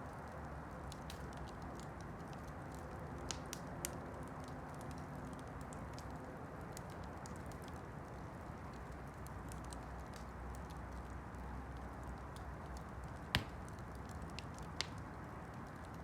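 Campfire burning with a steady low rush and scattered sharp crackles of burning wood, with one loud pop about thirteen seconds in and a smaller one shortly after.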